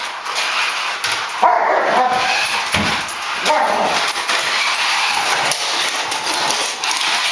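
A dog crying out in short pitched calls, about a second and a half in and again about three and a half seconds in, over steady background noise.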